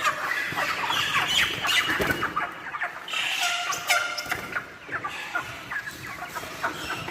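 Chickens clucking, with many short calls overlapping one another.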